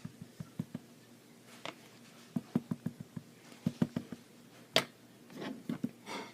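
Quick runs of light taps from an ink pad being patted onto a rubber stamp, with one sharper click about five seconds in and a brief rustle near the end.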